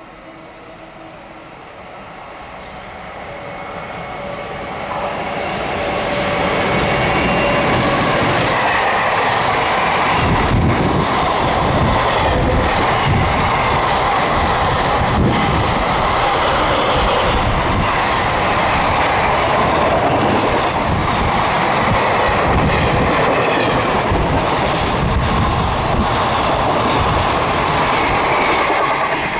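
Container freight train passing close at speed. Its sound swells over the first several seconds as it approaches, then holds as a steady loud rumble of wagon wheels with a repeated clickety-clack.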